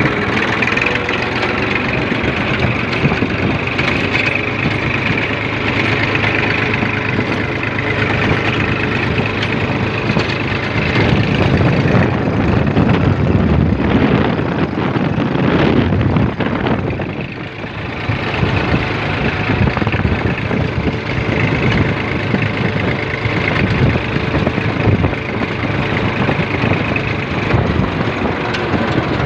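Tractor diesel engine running steadily while pulling an implement through a field, getting louder and heavier from about 11 to 17 seconds in, dipping briefly, then settling back to a steady run.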